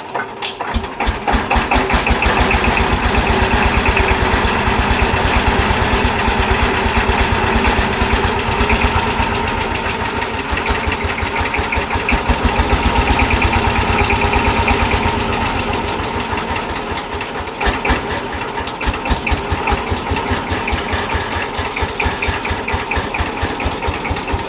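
Saifing 12-horsepower power tiller's single-cylinder diesel engine starting up about a second in, then running with a rapid, even thumping. It eases slightly after the midpoint.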